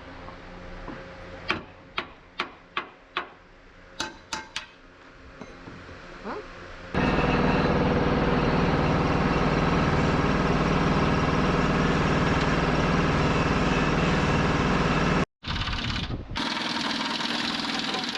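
About eight sharp hammer blows on metal, some of them ringing, over a low hum. About seven seconds in, a loud, steady machine noise starts abruptly and runs on, dropping out briefly near the end.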